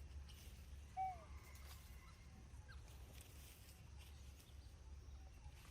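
A single short animal call, a brief chirp that falls in pitch, about a second in. Faint low rumble throughout.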